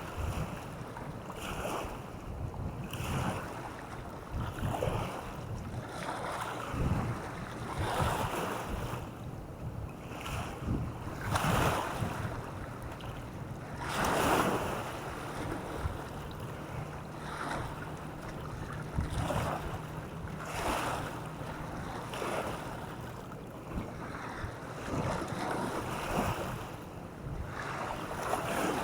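Waves washing on a beach shore, with wind buffeting the microphone in repeated gusts. A faint, steady low hum comes in for several seconds in the middle.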